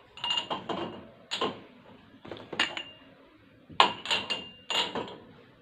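Dishes and stainless-steel kitchenware clinking and knocking as they are handled, a series of sharp clinks, some ringing briefly, with a busier cluster about four seconds in.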